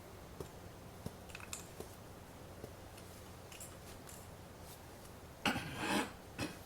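Faint scattered clicks and light handling noises of board game pieces, cards and paper money on a table, with a louder, noisier handling sound about five and a half seconds in.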